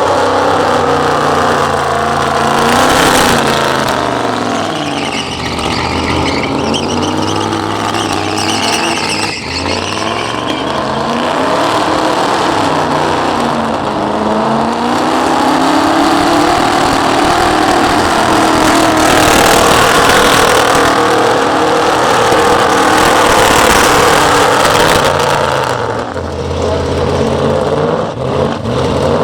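Burnout vehicle's engine held at high revs, its pitch rising and falling again and again, over the steady hiss of spinning tyres.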